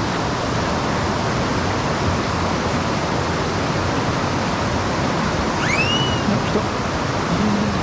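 Rushing mountain-stream water, a steady roar of flowing water. Near the end, one short whistle rises and falls over it.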